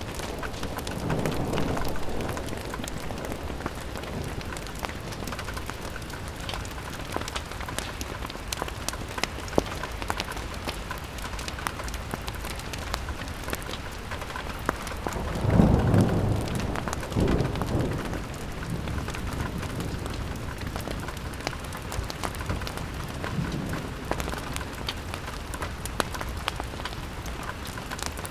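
Steady rain pattering on a window pane, dotted with many sharp little ticks, mixed with a fireplace's crackle. Low rumbling swells of wind or distant thunder rise briefly about a second in and more loudly about halfway through.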